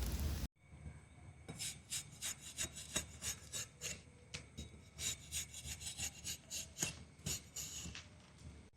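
Hand-tool strokes rasping on wood, a quick uneven run of several strokes a second, as when wood is cut or shaved at a campsite. It follows a loud rushing noise that cuts off sharply about half a second in.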